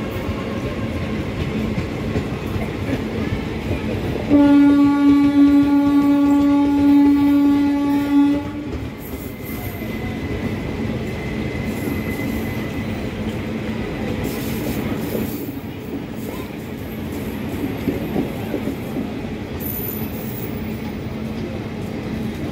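Passenger coaches of an express train rolling past at speed, wheels rumbling and clacking on the rails. About four seconds in, a train horn blows one steady note for about four seconds, then the rolling noise carries on.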